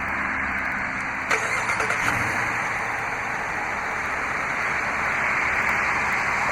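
Dodge Charger R/T's 5.7-litre V8 started by remote start: it cranks and catches about a second and a half in, then settles into a steady idle.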